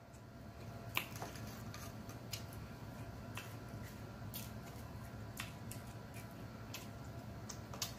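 Close-up eating sounds: a mouth chewing, with scattered wet smacks and clicks, the sharpest about a second in, over a low steady hum.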